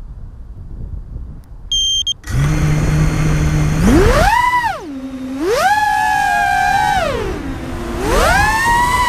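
Brushless motors of a four-inch FPV racing quad (Racerstar 2205 2600kv) spinning up after a few short high beeps, idling at a low steady hum, then whining up and down in pitch with three throttle punches.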